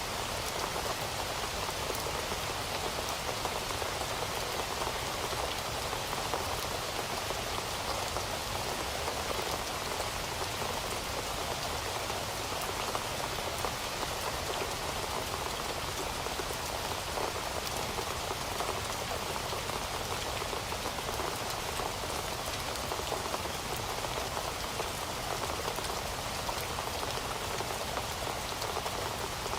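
Heavy rain falling steadily, a dense even patter of drops on a surface with no letup.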